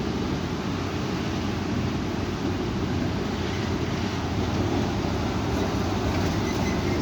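Strong wind blowing steadily, with a deep rumble from the wind buffeting the microphone.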